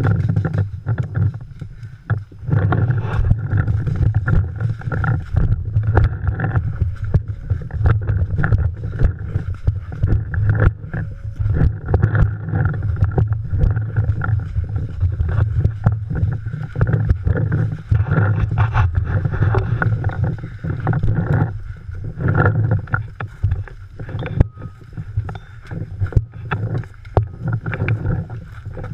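Heavy rumbling wind and handling noise on a camera microphone carried during a paintball game, with many short sharp clicks and knocks scattered through it.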